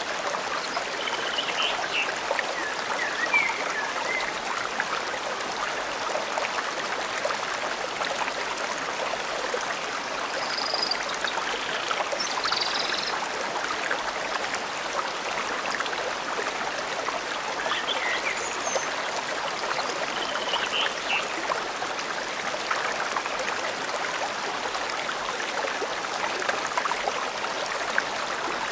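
Forest stream flowing steadily over stones, with a few short bird chirps in three scattered groups.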